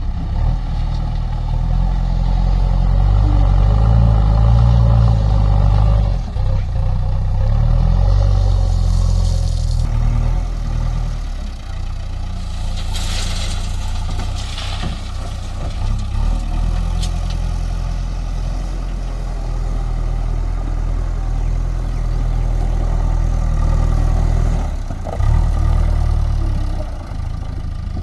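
JCB backhoe loader's diesel engine running under load, its note rising and falling as the machine works, with a brief rush of noise about halfway through.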